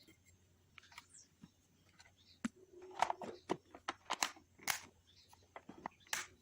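Handling noises: irregular clicks, taps and crinkling, sparse at first and thickest from about two and a half seconds in.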